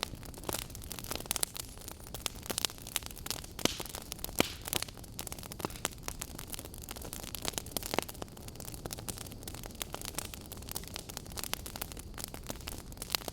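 Wood fire burning, logs crackling with frequent, irregular sharp pops and snaps over a steady hiss.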